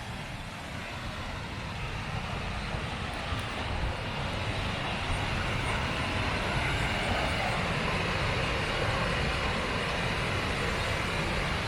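Waterfall roar from the Lower Falls of the Genesee River: a steady rushing of falling water with a deep rumble underneath. It swells gradually over the first few seconds, then holds level.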